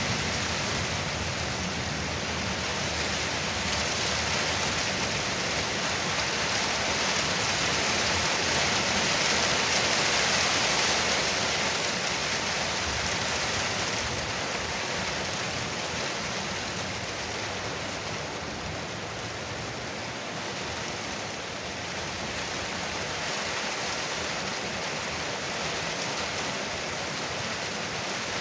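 Rain pouring steadily onto a porch roof: a dense, even patter that swells a little about ten seconds in and then eases slightly.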